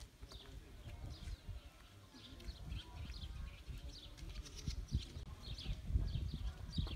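Small birds chirping in short repeated calls, over a low uneven rumble with a few dull thumps.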